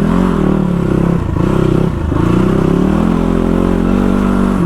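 CX250R motorcycle engine running under way, its pitch rising and falling with the throttle and dipping briefly twice, about one and two seconds in.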